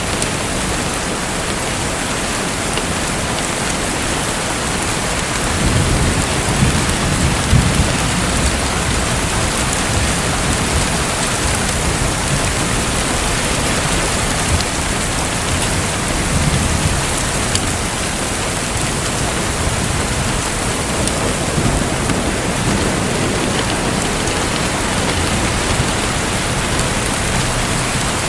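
Steady, dense water noise like heavy rain or splashing water, with a low rumble swelling about six seconds in and again around sixteen seconds.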